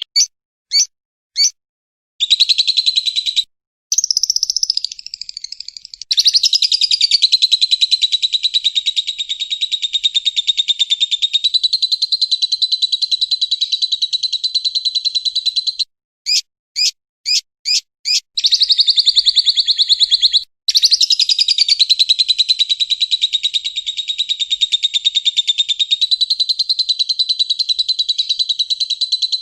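Recorded songbird calling: long, very rapid high trills held for several seconds at a time, with a few short sharp chips between them, as played for training caged songbirds.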